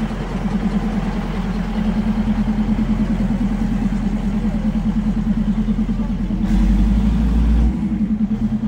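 Diesel passenger railcar passing within arm's reach, its underfloor engine giving a steady pulsing drone over a low rumble. About six and a half seconds in, a deeper rumble swells for about a second.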